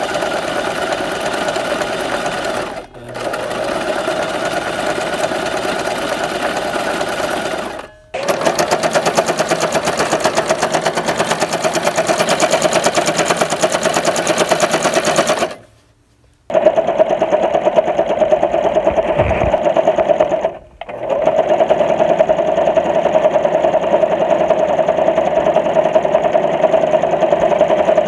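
Electric sewing machine running steadily at a fast, even stitching rhythm. It stops briefly and restarts several times, with the longest pause, about a second, a little past halfway.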